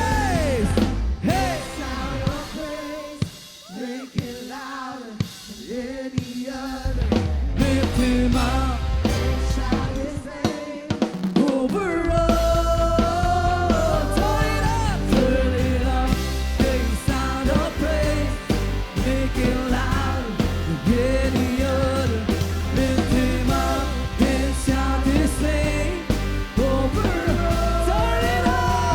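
Worship band music: a singer's wordless, held vocal lines over bass and drum kit. A few seconds in, the band drops to a quieter, sparser passage, and the full band with drums comes back in after about twelve seconds.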